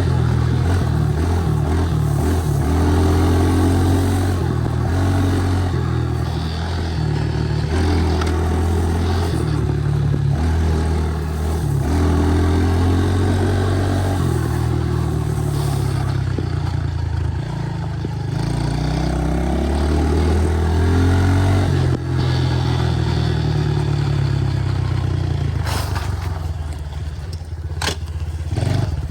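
Honda 110 pit bike's small single-cylinder four-stroke engine running under way, its pitch rising and falling again and again as the bike is throttled and shifted. A few sharp clicks come near the end.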